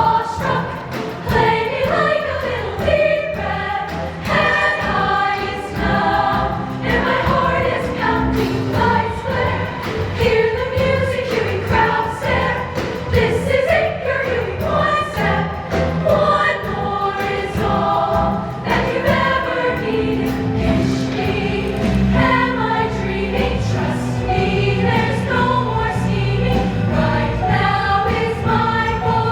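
Show choir singing in parts over a backing track, a mixed group of voices carrying the melody with sustained low accompaniment underneath.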